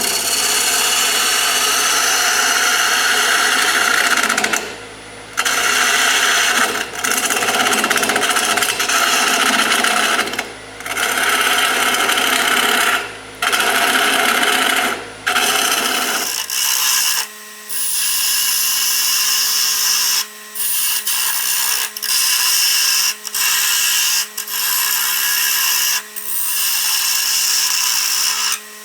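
A hand-held turning tool cutting wood on a spinning Grizzly wood lathe: a loud hissing scrape in long stretches, broken by short pauses as the tool comes off the wood. About halfway through, the lathe's low hum gives way to a steadier, higher hum.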